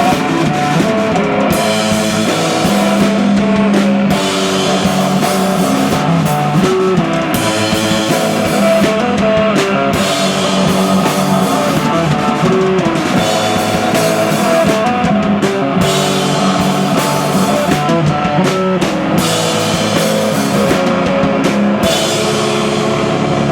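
Live rock band playing: a drum kit keeping a steady beat under guitars, with a loud, dense sound.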